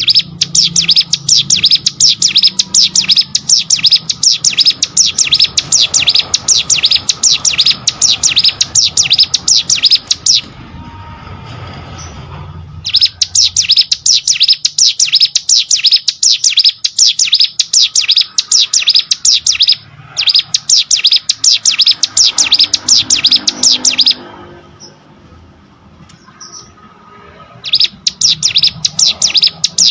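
Ciblek sawah (a prinia) singing a loud, very rapid trill of high repeated notes in long bursts, with pauses of a few seconds about a third of the way in and again near the end.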